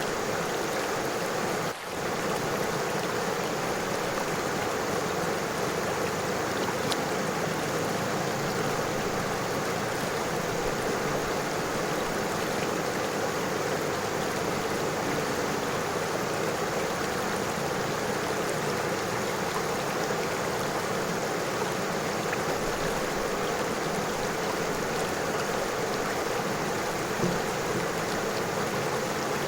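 A river running over stones: a steady rush of flowing water. It dips briefly about two seconds in.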